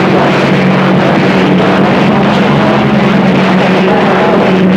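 CB radio receiver noise on the 11-metre band: loud, steady hiss and static with a constant low humming carrier tone and warbling, garbled signals underneath.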